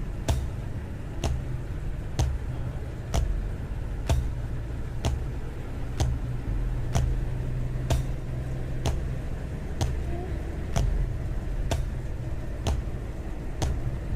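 Tourist bus running, a steady low rumble of engine and road noise, with a sharp click repeating evenly about once a second.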